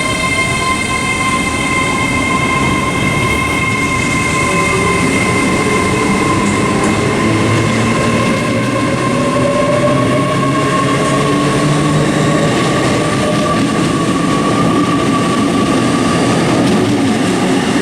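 Great Western Railway Class 802 bi-mode multiple unit pulling into the station. It gives a steady high whine with a few slowly gliding tones over an even rumble.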